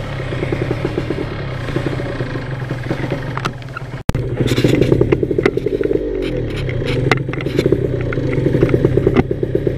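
Yamaha RX-King's 135cc two-stroke single-cylinder engine running as the motorcycle is ridden, its exhaust giving a fast steady pulse. The sound cuts out briefly about four seconds in and comes back louder, with the engine pitch dipping and rising again a couple of seconds later.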